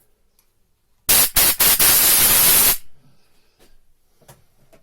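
A loud hiss from a pressurised jet: a few short spurts, then a steady blast about a second and a half long that stops abruptly.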